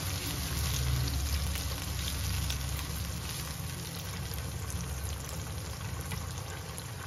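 Onions and ginger-garlic paste frying in ghee in a nonstick wok: a steady sizzle with fine crackles while a silicone spatula stirs them.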